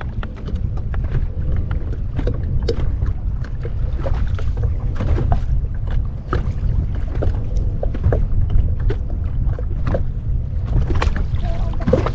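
Water splashing and knocking against a fishing kayak, with irregular short splashes throughout, over a heavy low wind rumble on the microphone.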